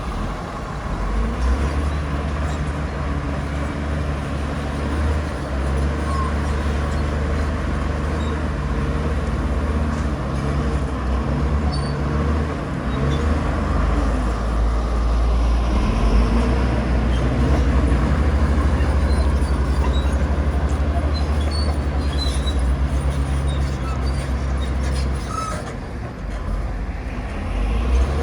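Heavy diesel engine of earthmoving machinery running under load, a steady low drone whose pitch shifts a few times as it works, dipping briefly near the end.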